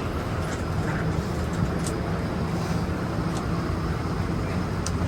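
Steady low rumble and hiss of a parked airliner's air systems and airport ground equipment, with a few faint light clicks.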